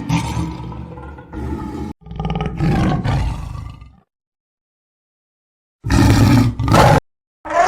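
A large animal roaring: several separate loud, rough calls, each cut off abruptly with dead silence between, the loudest about six seconds in and another starting near the end.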